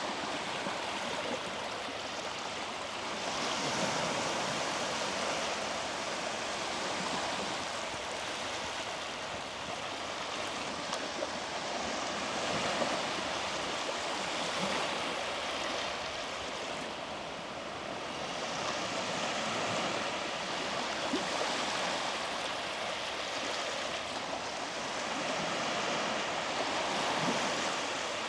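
Small sea waves washing onto a beach, the surf noise swelling and easing every few seconds.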